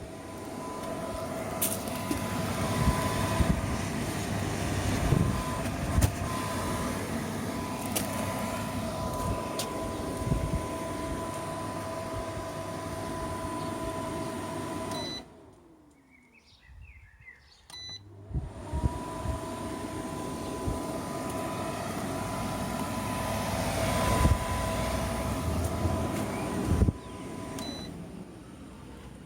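Portable air conditioning unit running with a steady hum. About halfway through it is switched off with a short beep and the fan winds down with a falling pitch; after a few seconds it beeps and starts running again, then is switched off with another beep near the end.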